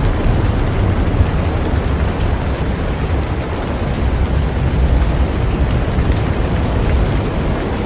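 Heavy rain falling on a boat: a steady, dense hiss with a deep rumble underneath.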